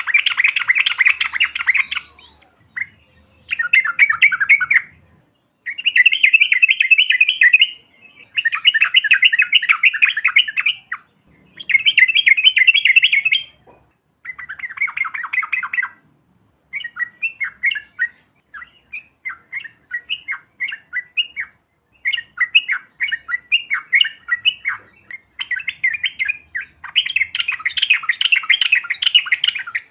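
Yellow-vented bulbuls (trucukan), several together, singing and chattering in a string of fast, rolling trilled phrases. Each phrase lasts a second or two, with short pauses between them.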